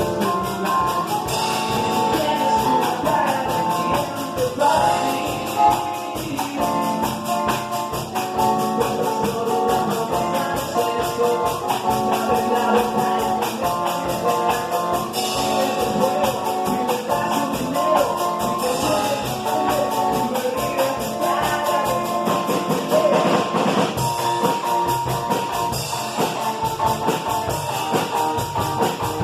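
Rock band playing a cover song: electric guitars over drums keeping a steady beat, with melodic lines bending in pitch.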